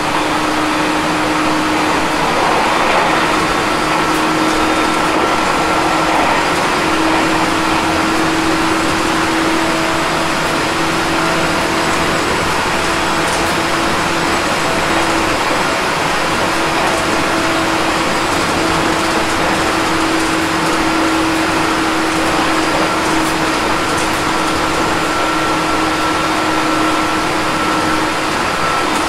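Aoimori Railway 701 series electric train running at an even pace, heard from inside the car: steady wheel-and-rail noise with a couple of steady humming tones.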